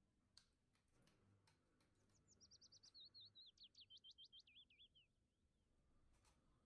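A songbird sings one faint phrase of rapid, high repeated notes that drop in pitch toward the end.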